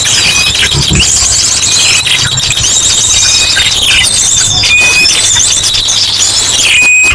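A dense, noisy chorus of many small birds chattering and trilling at once, mixed with ashy drongo calls: a bird-lure recording. Short clear whistles recur every second or two over a continuous high trill.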